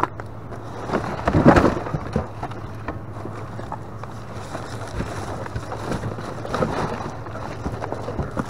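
Rustling, clicking and knocking of items being handled while rummaging through a dumpster, with a louder rustle about a second and a half in, over a steady low hum.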